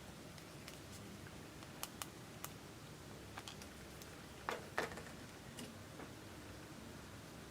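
Clear slime being mixed and handled, giving faint scattered sticky clicks and crackles, with a louder cluster of crackles a little past the middle, over a low steady hiss.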